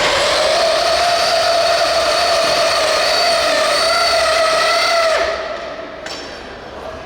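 RC pulling vehicle's motor whining at high pitch under full load during a pull, holding a steady, slightly wavering pitch. It cuts off about five seconds in.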